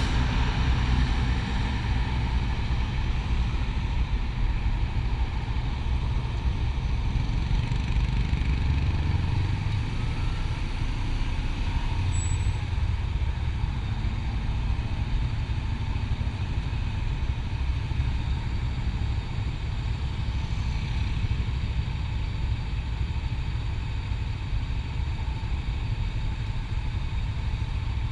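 Motorcycle running steadily on the open road, a continuous low rumble under a steady rush of road and wind noise.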